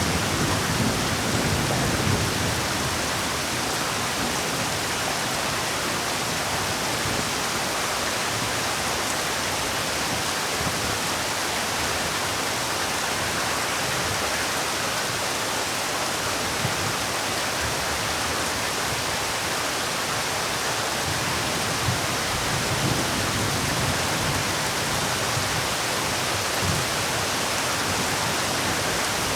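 Heavy rain falling steadily, an even hiss, with a low rumble dying away in the first two seconds.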